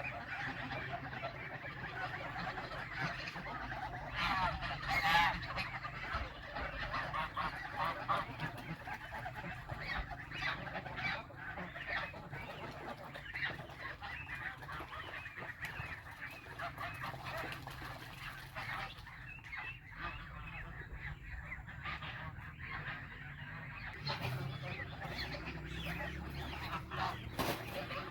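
A flock of farm poultry calling continuously, with overlapping honking calls that are loudest about four to five seconds in.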